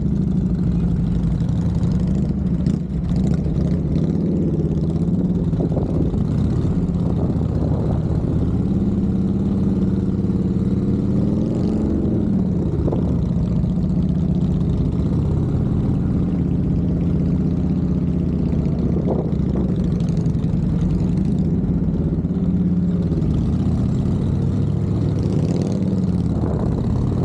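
Motorcycle engine running at low speed, its note mostly steady with small throttle changes and a brief rise and fall about twelve seconds in.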